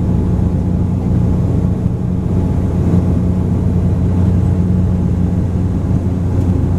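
Steady cabin drone of a Bombardier Q400's Pratt & Whitney PW150A turboprops in the climb: a loud low propeller hum with two strong unchanging tones under a layer of airflow noise.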